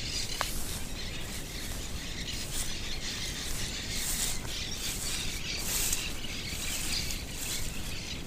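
Birds chirping in short, repeated calls over a steady outdoor background hiss.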